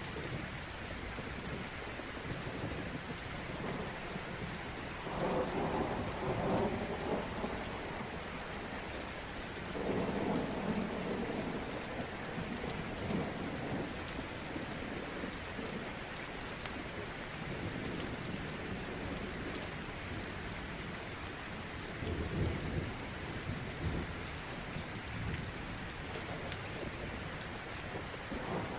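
Steady rain hiss with rumbles of thunder swelling up and dying away several times, about a fifth, a third and three quarters of the way in, and again at the very end.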